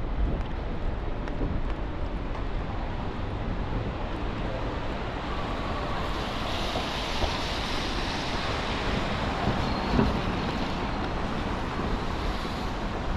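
Wet city street: a steady low traffic rumble, with a hiss of tyres on wet road that swells about halfway through and fades near the end.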